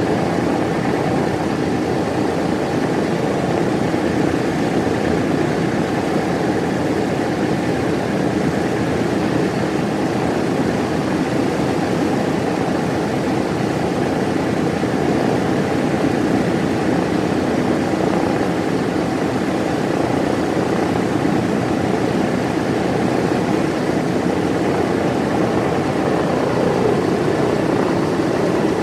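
Propeller aircraft engine running steadily at a constant speed, loud and unbroken.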